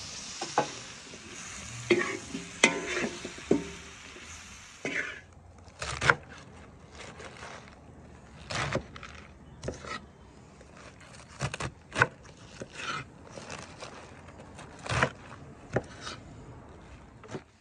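Pork and tomatoes sizzling in a large wok over a wood fire, stirred and scraped with a metal slotted spoon. About five seconds in the sizzle stops, and a kitchen knife chops mustard greens on a wooden board in sharp, uneven strikes.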